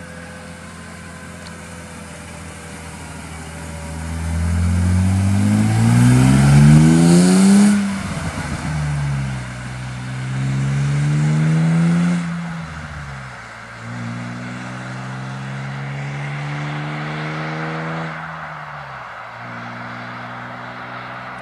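BMW E36 320i's 2.0-litre M52B20 inline-six sounding through a custom rear muffler. It runs low and steady, then revs up hard to a peak about eight seconds in and falls back. Two more gentler climbs in revs follow, each dropping away, before it settles low near the end.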